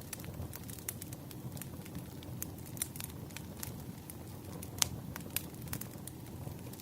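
Burning firewood crackling, with irregular sharp pops and snaps, the loudest about five seconds in, over a low steady rumble.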